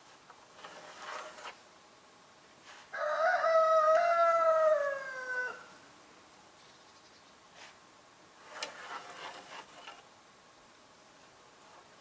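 A rooster crowing once, starting about three seconds in: a single call of about two and a half seconds that drops in pitch at its end. Faint rustling or scraping sounds come before and after it.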